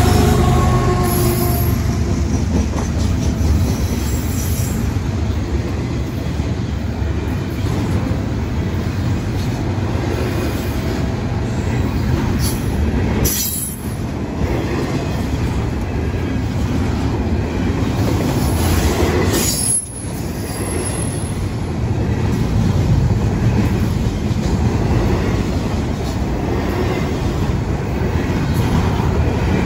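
A long freight train's cars rolling past on the rails in a steady rumble, with short high wheel squeals now and then.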